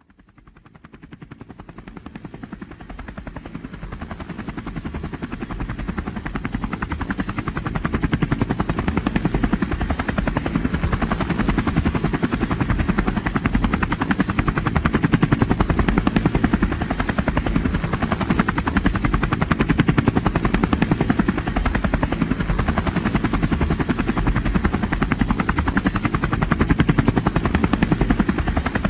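Steady, fast-pulsing mechanical drone that fades in over the first several seconds and then holds at a constant level.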